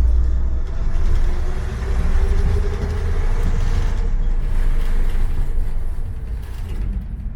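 Diesel-hauled heritage train on the move: a steady low rumble, with a faint steady drone above it.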